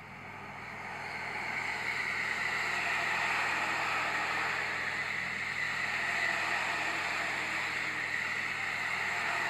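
Electric commuter train running through a station at speed without stopping: the rush of wheels on rails and passing cars builds over the first couple of seconds as it arrives, then holds steady as the carriages stream past.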